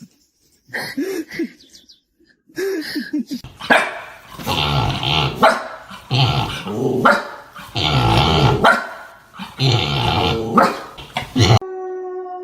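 A dog growling and barking in loud, repeated bouts about a second long, after a few softer short sounds. The dog sound cuts off abruptly near the end, and music begins.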